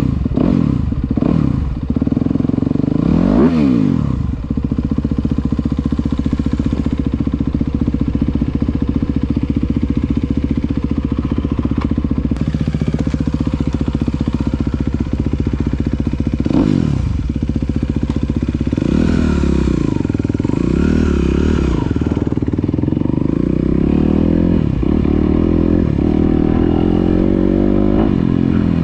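Motocross dirt bike engines running, revving up and down in several sweeps: about three seconds in, around seventeen seconds, and several times between nineteen and twenty-two seconds.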